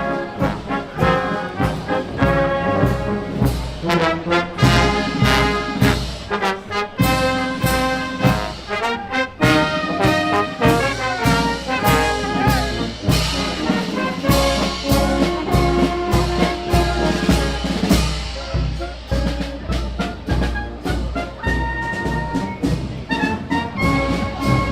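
Brass band music, trombones and trumpets playing sustained notes over a steady drum beat.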